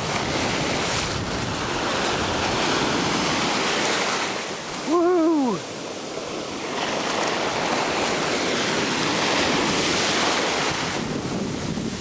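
Ocean surf washing onto a beach, with wind buffeting the microphone as a steady rushing hiss. About five seconds in, a person gives one short "woo!".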